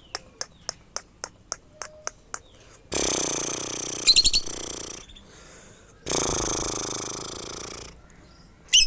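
A pet bird calling: a quick run of short clicks, about three a second, then two long harsh screeches of about two seconds each, with a few rapid high chirps.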